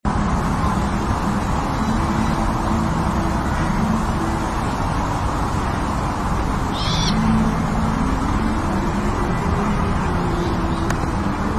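A bird's low hooting calls repeating over steady background noise, with one short high chirp about seven seconds in.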